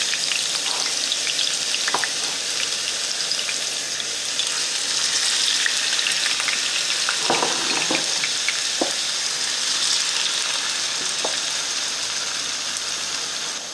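Diced potatoes sizzling as they fry in hot vegetable oil in a 3-ply stainless steel fry pan, a steady hiss. A few light clicks come as more pieces are dropped into the pan.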